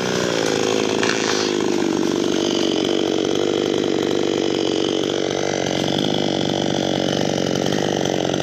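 Two-stroke chainsaw engine: its pitch drops in the first second, then it runs steadily at a lower, even speed.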